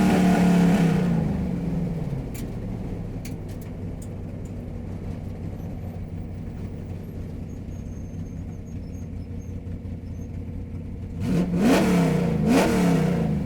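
Car engine: its revs fall away at the start and it settles into a low, steady idle with a few light clicks. Near the end the throttle is blipped twice, the pitch rising and falling each time.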